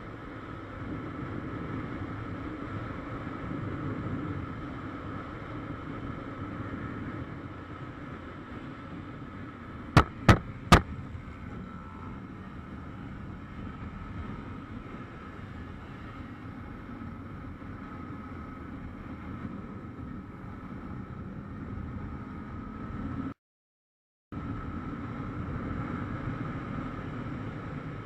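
Motorcycle riding noise from a helmet camera: steady engine and wind rush. About ten seconds in come three sharp, very loud cracks in quick succession, and near the end the sound cuts out completely for about a second.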